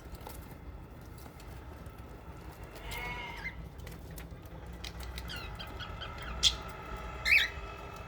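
Small pet parrots, budgerigars and lovebirds, chirping and chattering, with two sharp, loud calls near the end.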